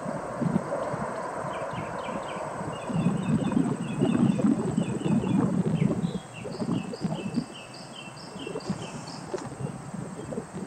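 A songbird chirping in quick runs of short repeated notes, with a higher run about two-thirds of the way in. Beneath it is a low, gusting rumble that swells loudest in the middle.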